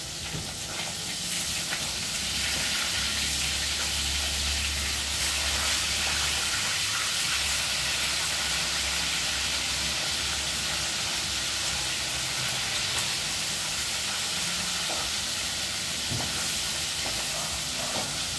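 Food sizzling in a hot wok as it is stirred, the sizzle growing louder about two seconds in and then holding steady, with a few light clicks of the stirring utensil.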